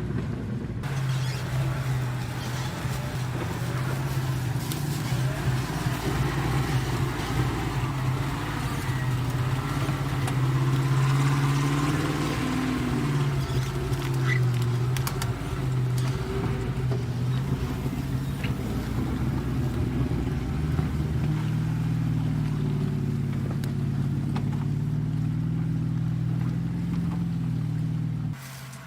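A motor vehicle's engine running steadily, a low drone that wavers a little in pitch, over rumbling road noise.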